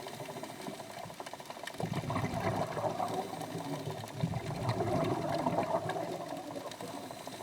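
Underwater bubbling and rumbling water, picked up through a camera housing and swelling and fading in waves every two to three seconds.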